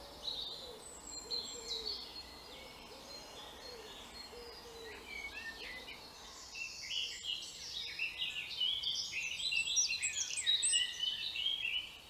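Several woodland birds singing together, a dawn-chorus-like mix of short chirps and trills, sparse at first and much busier in the second half, with a few faint low notes in the first half.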